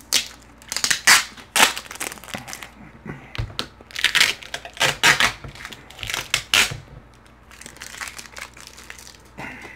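Close-up crunching of a mouthful of Flamin' Hot Cheetos-crusted fried fish being chewed: a run of loud crunches that grow softer near the end.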